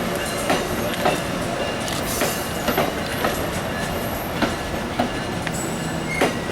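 Passenger rail car rolling along the track, heard from on board: a steady rumble with irregular sharp clacks of the wheels over rail joints and switches, and faint wheel squeal.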